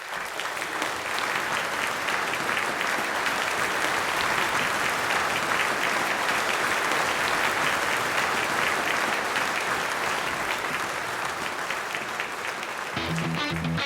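Audience applauding steadily, a dense patter of claps. Near the end an electric guitar begins to play.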